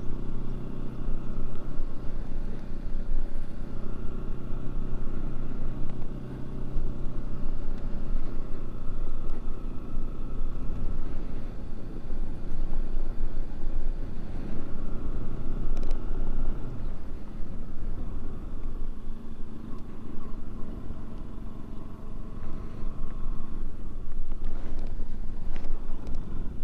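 Bajaj Pulsar NS 200's single-cylinder engine running while the motorcycle is ridden, its note shifting several times as the rider speeds up and eases off.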